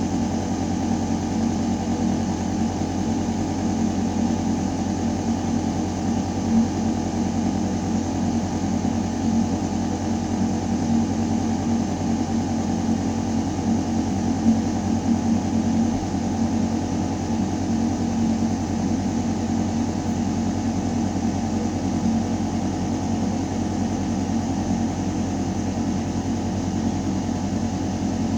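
Building ventilation system running: a steady, deep mechanical hum of air moving through metal ductwork. The hum holds one constant low tone, with a fainter airy hiss above it.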